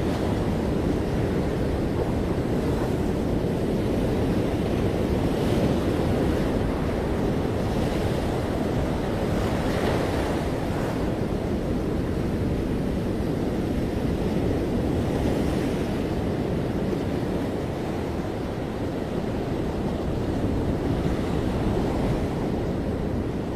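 Ocean waves breaking on a beach: a steady wash of surf with several gentle swells as waves come in, and some wind noise on the microphone.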